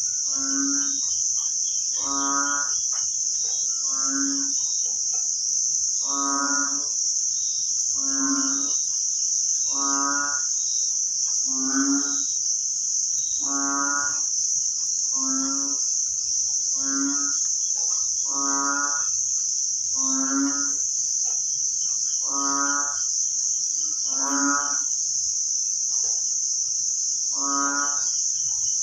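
Low, cow-like animal calls repeating about every second and a half in a steady rhythm, over a constant high insect drone.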